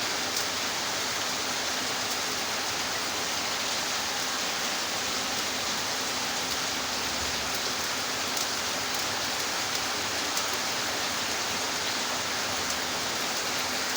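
Steady, even hiss of the stove's burner flame, with a few faint crackles.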